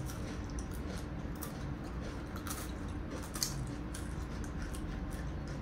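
Chewing and crunching an ice cream cone with a chocolate-filled tip: a few short, crisp crunches over a steady low hum.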